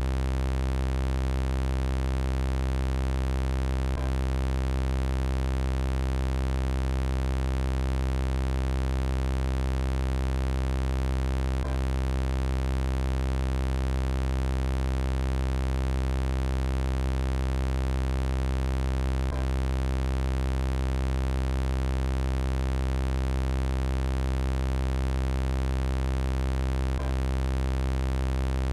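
Synthesized robot-voice sound effect: a steady, low electronic buzzing drone with many overtones and no change in pitch, with a brief glitch about every seven and a half seconds where the loop repeats.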